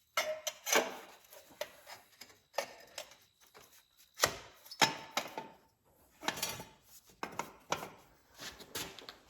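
Irregular knocks and clanks of steel exhaust pipe pieces being handled and fitted together, a dozen or so sharp strikes, a few with a brief metallic ring.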